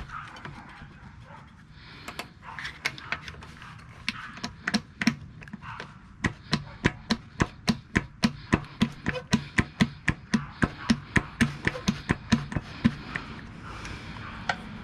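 Tool work on a small engine: a few irregular sharp metal taps, then an even run of sharp taps, about three or four a second, that stops near the end.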